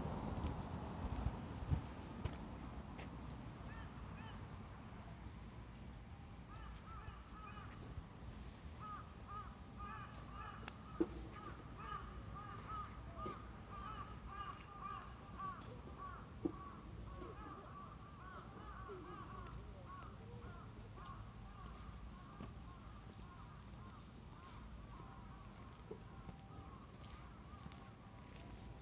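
Autumn insects chirring steadily at two high pitches, with a bird calling over them in long runs of short repeated notes from a few seconds in until near the end.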